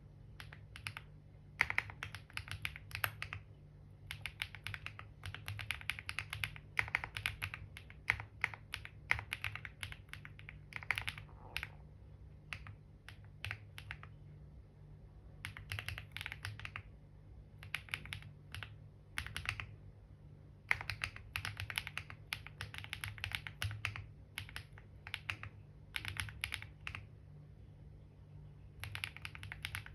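Typing on a computer keyboard: bursts of rapid key clicks broken by short pauses, over a steady low hum.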